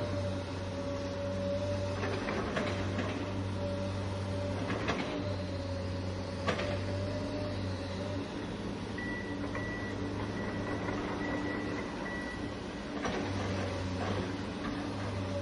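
Remote-control toy excavator's small electric motors and plastic gearboxes whining steadily, with a few sharp clicks. The lowest part of the hum drops away for a few seconds in the middle while a thin, higher whine comes in.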